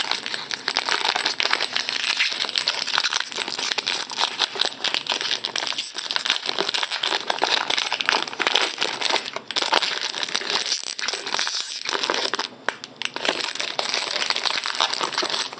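Wrapper of a Topps basketball card jumbo pack crinkling and crackling steadily as it is worked and torn open by hand, with a short pause about twelve and a half seconds in. The pack is hard to open.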